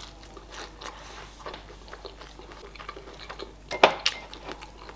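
Close-miked eating of crispy fried chicken wings: biting and chewing, a string of small wet clicks and crunches, with one louder crackle about four seconds in.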